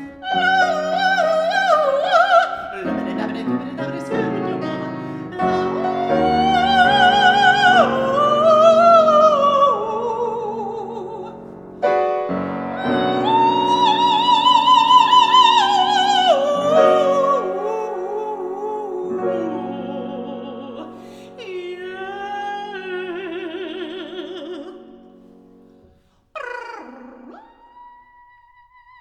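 Mezzo-soprano singing operatic lines with wide vibrato, holding long notes and sliding between them, over piano accompaniment. Near the end the singing stops, and a brief swoop gives way to a quiet steady held note.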